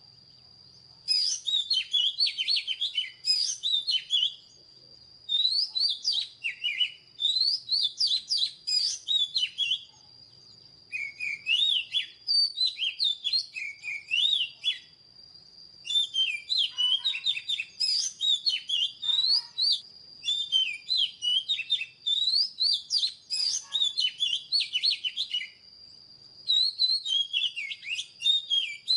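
Oriental magpie-robin singing: about six phrases of quick, varied, sliding whistled notes, each a few seconds long, separated by short pauses.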